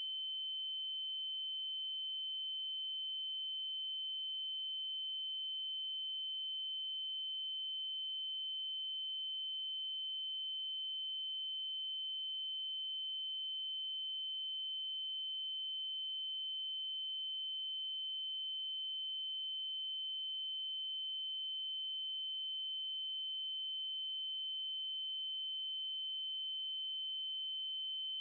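Synthesized 3072 Hz triangle-wave test tone, one steady high-pitched pitch held unbroken at constant level, with faint higher overtones.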